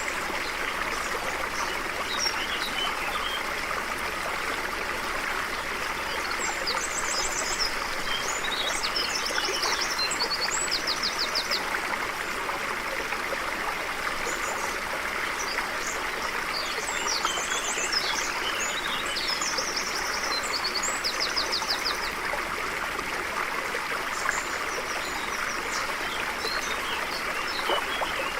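A stream running steadily, with birds singing short, rapid trilled phrases over it in spells, about six seconds in, again around seventeen seconds, and near the end.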